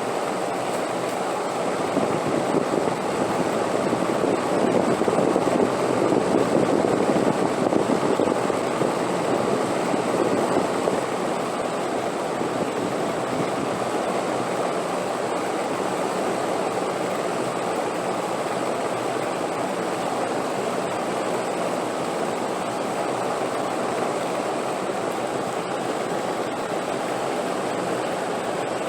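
Steady rushing wind, a gust swelling louder a few seconds in and easing back about eleven seconds in.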